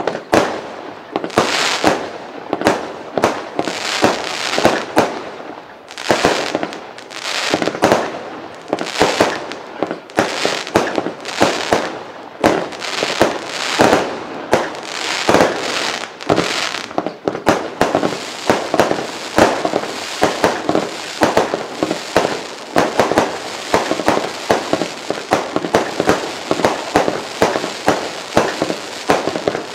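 Lesli P.I.M.P. firework firing a long run of aerial shots, each one a sharp bang as it bursts overhead. At first the shots come about one or two a second; from about two-thirds of the way in they come much faster, in a dense crackling barrage.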